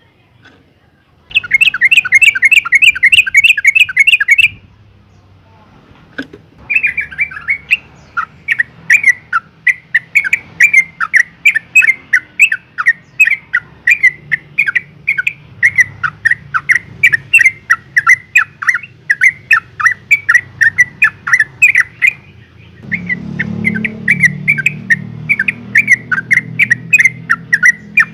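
Female yellow-vented bulbul calling: rapid strings of short chattering notes, a dense burst near the start, then after a short pause a long steady series of about three notes a second, with a brief break before a last run. This is the call a female makes to draw males.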